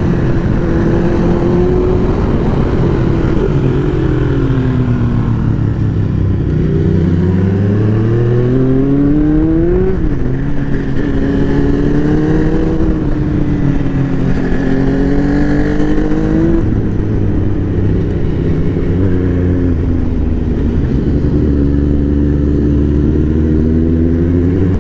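Superbike engine under way, pitch falling as it slows, then climbing steadily as it accelerates, dropping sharply about ten seconds in at a gear change, wavering, then holding a fairly steady speed, over a constant low rumble of riding noise.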